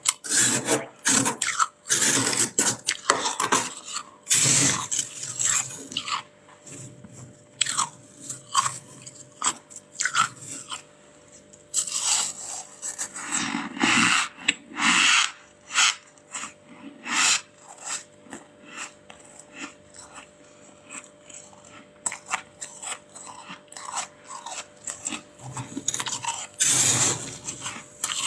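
Freezer frost being scraped off and crunched between the teeth: repeated short rasping scrapes and crisp crunches, busiest in the first half and again near the end, with a sparser stretch before that.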